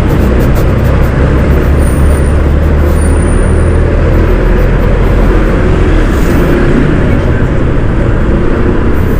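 Riding noise on a Honda ADV160 scooter: steady wind rush on the microphone over the running engine and road traffic.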